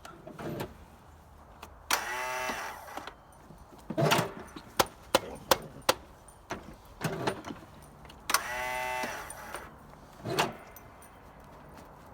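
Lawnmower recoil starter pulled twice, each pull a whirr of about a second, with clicks and knocks in between; the engine does not catch and run.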